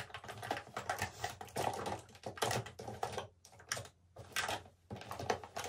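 A run of irregular taps and clicks from a makeup brush and a plastic powder compact being handled.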